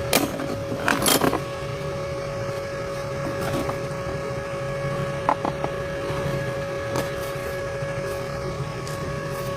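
Steady mechanical hum with one constant tone over a low rumble, with a few sharp knocks in the first second or so and a couple of clicks about five seconds in.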